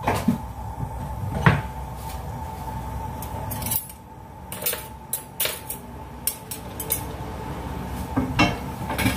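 Kitchen clatter of pans and utensils: scattered sharp knocks and clinks, over a steady hum that cuts out about four seconds in.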